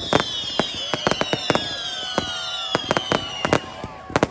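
Fireworks going off in rapid succession: many sharp cracks and bangs, overlaid by several high whistles that slowly fall in pitch and fade out about three and a half seconds in.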